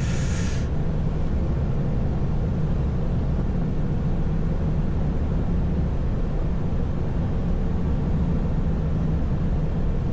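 Steady low drone of a truck's diesel engine and road noise heard inside the cab while driving, with no change in pitch or level. A short hiss sounds right at the start.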